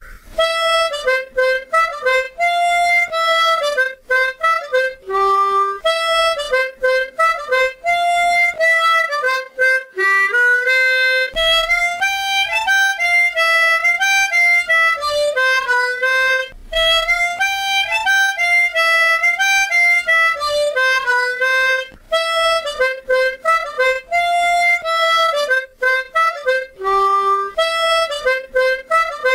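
Tremolo harmonica tuned in C playing a lilting single-note melody, with short breaks between notes and phrases.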